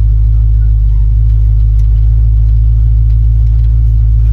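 Small-block Chevrolet V8 of a hot-rod truck running steadily with a deep, even low rumble.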